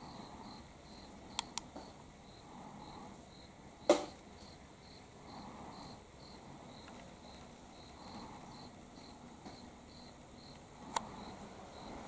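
Autumn cricket chirping steadily, a run of short high chirps two or three a second. A few sharp clicks cut in over it, the loudest about four seconds in.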